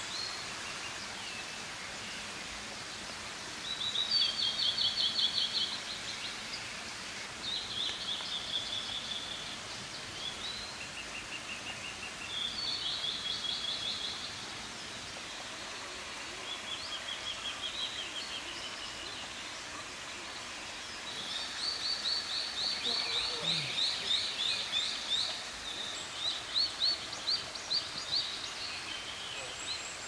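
Forest birdsong: a bird sings short, high, rapid trilled phrases every few seconds, with a longer run of phrases near the end, over a steady background hiss.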